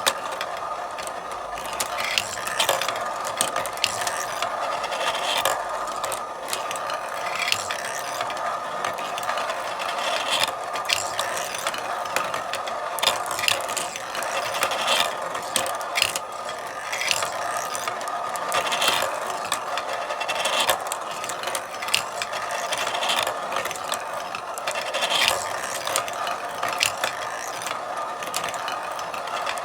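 Marbles rolling along a marble run: a steady rolling sound with frequent irregular clicks and clacks.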